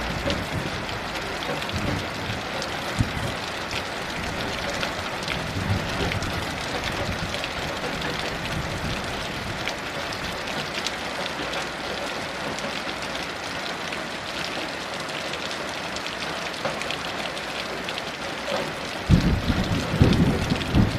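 Steady heavy rain, a dense hiss sprinkled with the ticks of single drops striking. Near the end a low rumble of thunder comes in.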